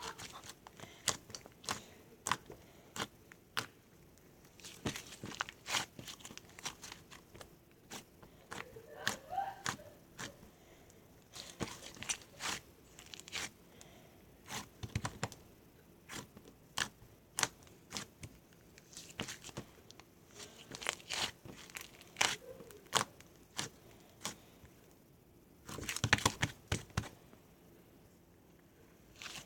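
Close-up crinkling, crackling and tearing with many sharp clicks and taps, coming in irregular clusters, the loudest near the end.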